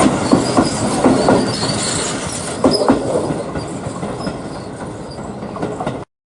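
Train running along the track, wheels knocking over rail joints with a little squeal, fading steadily as it moves away; the sound cuts off abruptly about six seconds in.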